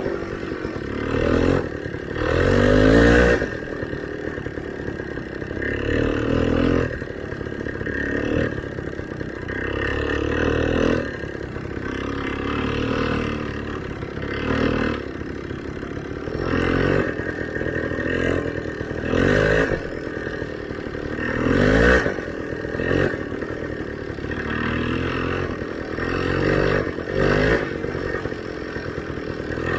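Small motorcycle engine revving up and dropping back again and again in repeated bursts of throttle, working through deep snowdrifts.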